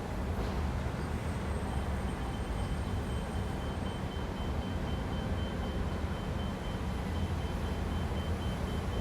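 Downtown city traffic: a steady low rumble of vehicles. From about two seconds in, a faint high-pitched tone pulses rapidly on and off.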